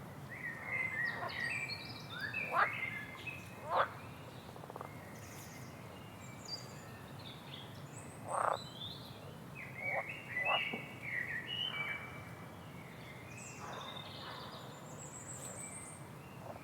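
Rainforest wildlife calling: many short, high chirps, whistles and trills from birds and frogs, with a few quick sharp call notes standing out, over a steady background hiss.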